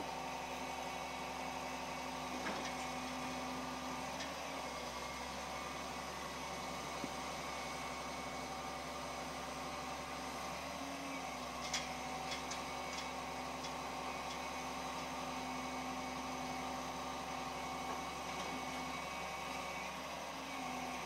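Roll-off truck running steadily as it loads a waste container, a level engine and hydraulic hum. A few short knocks come a little past halfway through.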